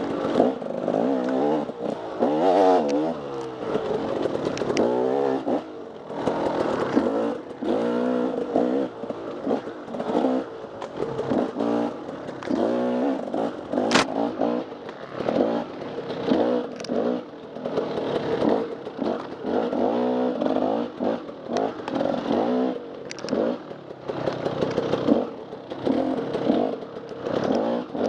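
Off-road dirt bike engine revving up and down over and over as the throttle is worked through a trail section, with a sharp click about halfway through.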